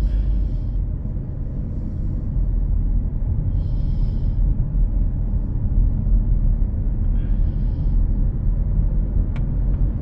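Car road noise heard from inside the cabin while driving: a steady low rumble, with a few short higher hissy sounds over it.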